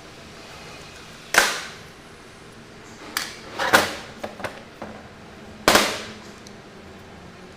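Tools and carburetor parts being handled on a workbench during a carburetor strip-down: a few sharp knocks and clicks with a short ring after each, the loudest about a second and a half in and again near the end, over a steady low hum.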